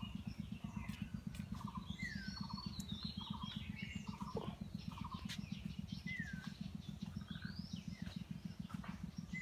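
Several songbirds calling: short whistles that rise and fall, chirps, and a brief buzzy note repeated about five times, over a steady low rumble.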